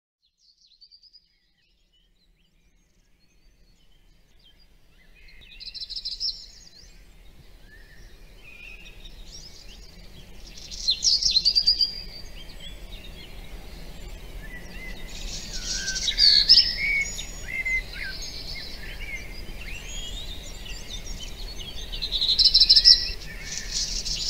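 Birds chirping and singing in quick, overlapping calls over a low, steady background rumble. The sound fades in from near silence over the first few seconds, and the calls grow busier toward the end.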